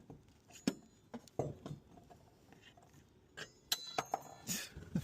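Scattered light clicks, taps and scrapes of a stick poking down into a gap in a kei truck's bed, with a few brief ringing clinks about three and a half seconds in.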